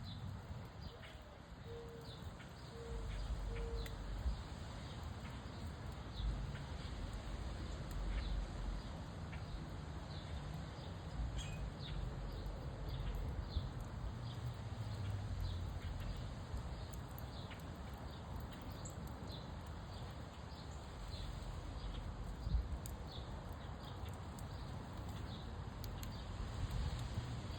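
Wood fire crackling with scattered sharp pops, over a steady low rush of wind.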